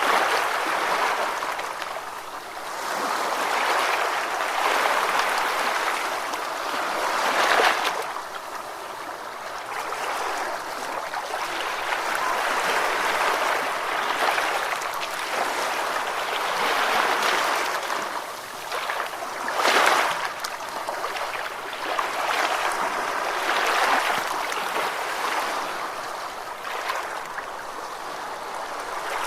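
Ocean waves washing ashore: a continuous rush of surf that swells and ebbs, with two sharper breaks about eight and twenty seconds in.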